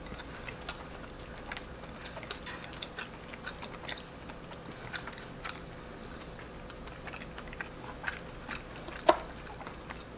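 Close-up chewing of a soft, sticky mochi: many small mouth clicks scattered throughout, with one sharper click about nine seconds in.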